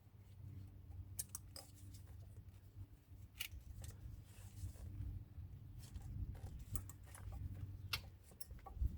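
Faint, scattered metallic clicks and light scrapes as brake pads and their retainer clips are handled and fitted in the caliper bracket, over a low steady hum.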